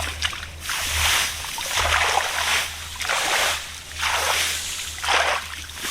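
Shallow water in a flooded rice field splashing and sloshing in repeated bursts, about one a second, over a low steady hum.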